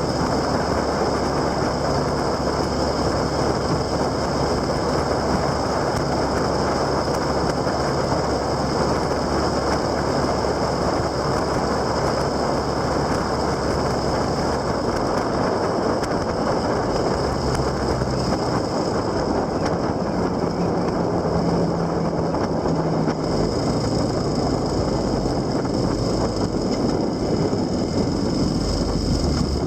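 Steady wind and road noise from a vehicle on the move, with a faint low hum that shifts in pitch about two-thirds of the way through.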